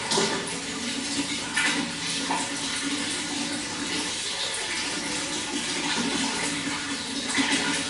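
Running water pouring and splashing steadily, with slightly louder splashes every few seconds.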